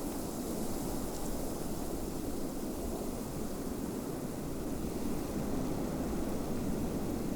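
Steady snowstorm wind blowing, an even low rushing noise with no distinct events.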